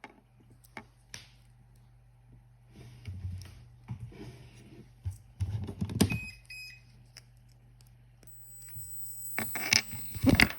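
Handling rustles and clicks, then about six seconds in a short series of electronic beeps from an RC transmitter being switched on. A faint steady low hum runs underneath, and a thin high whine starts near the end.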